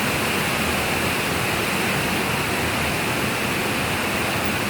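Steady rush of falling water from waterfalls inside a cave.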